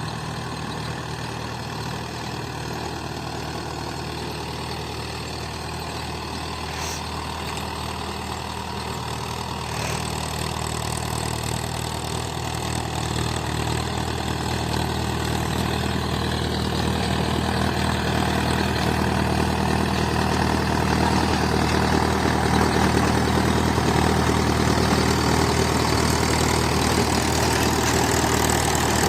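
Mahindra 575 DI tractor's diesel engine running steadily, growing louder from about ten seconds in and holding there.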